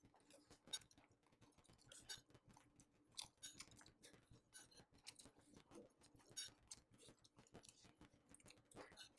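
Faint, close-miked chewing of a mouthful of fried rice: soft, irregular mouth clicks and smacks, with a few sharper clicks now and then.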